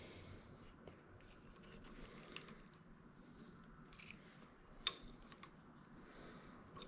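Near silence with a few faint, light clicks scattered through it.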